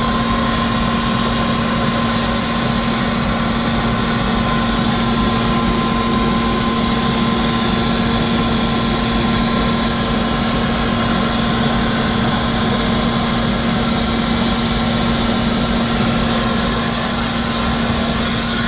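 Tour helicopter's turbine engine and rotor running steadily: a constant loud drone with steady whining tones.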